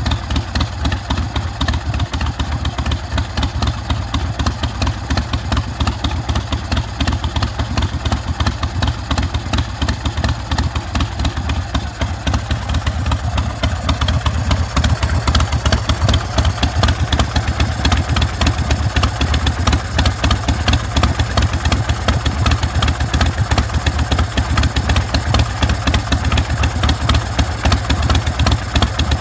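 Big Dog K9's carbureted 117 cubic inch S&S V-twin idling through a Vance & Hines Big Radius exhaust, with a steady run of firing pulses. The sound grows somewhat louder and fuller about halfway through.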